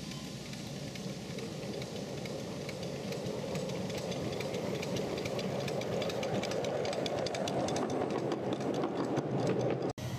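Miniature railway train running, with a steady rumble and many sharp clicks and rattles from the wheels and track. It grows slightly louder toward the end as it comes nearer.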